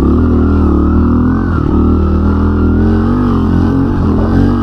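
110cc single-cylinder four-stroke pit bike engine running under way, its revs rising and falling a little.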